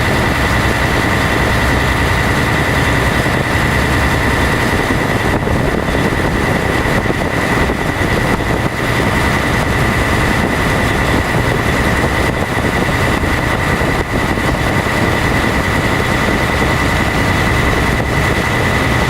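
Passenger boat's engine running at a steady drone, with a steady high whine over the rumble and a hiss of wind and water.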